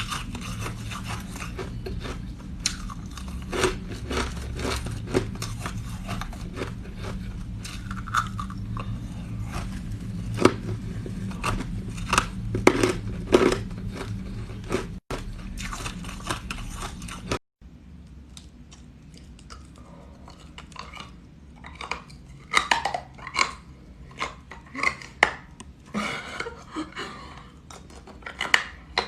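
Close-up chewing of crunchy green ice: irregular cracks and crunches. The sound cuts out briefly twice about halfway through; after that the low background hum is gone and the crunches come more sparsely.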